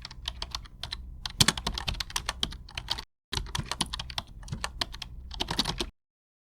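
Rapid typing on a keyboard: a fast, irregular run of key clicks. It cuts out for a moment about three seconds in, then resumes and stops abruptly near six seconds.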